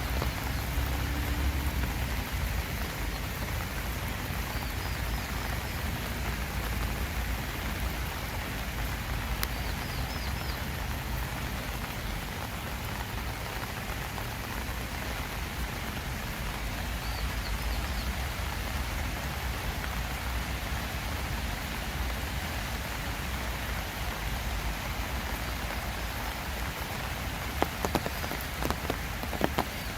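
Steady summer rain falling and pattering on surfaces. A few sharper, louder drops hit near the end.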